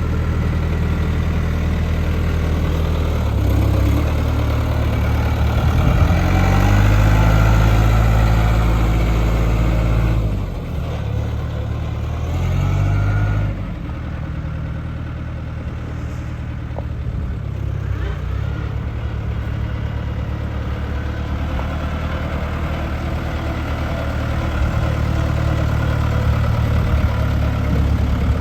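1997 New Holland 4835 tractor's diesel engine running. It revs up a few seconds in and holds a higher, louder speed, drops back, revs briefly again near the middle, then settles into a steady lower-speed run.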